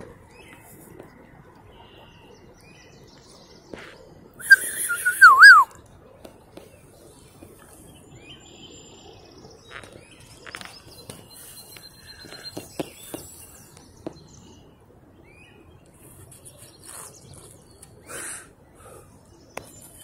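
Wild birds calling over a low outdoor hiss, with short scattered chirps. About four and a half seconds in comes one loud, wavering whistled call lasting about a second, the loudest sound here.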